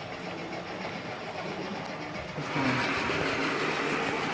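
OO gauge model trains running on the layout, giving a steady mechanical running hum that gets louder about two and a half seconds in.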